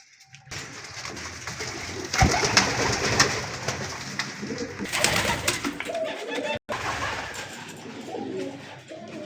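Many caged pet birds calling together in a dense chatter, loudest a couple of seconds in and again around five seconds, with the sound briefly cutting out about two-thirds of the way through.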